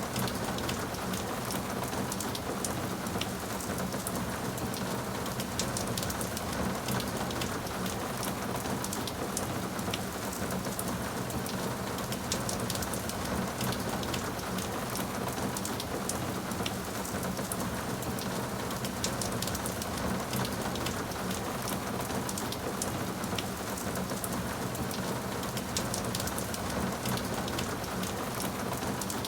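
Steady rainfall, with a dense patter of individual drops landing on a surface.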